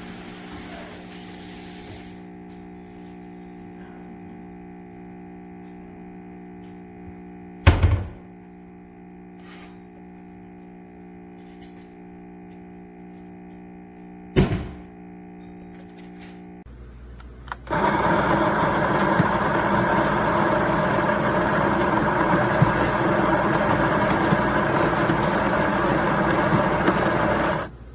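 Café Bellissimo espresso machine's built-in bean grinder motor running loud and steady for about ten seconds, then cutting off sharply. The owner says it yields only a few grounds per press even after cleaning, a sign of the grinder clogging. Before it, a steady low hum with two sharp knocks.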